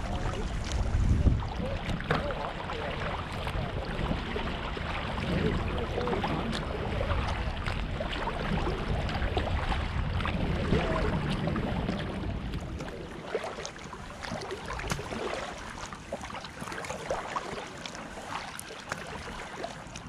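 Kayak paddle strokes in river water: repeated splashes and drips as the blades dip and lift, over a steady wash of water. A low rumble runs under it and drops away about twelve seconds in.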